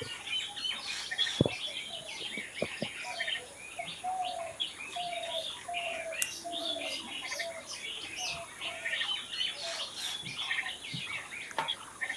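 Several wild birds chirping and singing at once, with many short high chirps overlapping throughout. In the middle a lower note repeats about twice a second for several seconds, and there are a few faint knocks near the start.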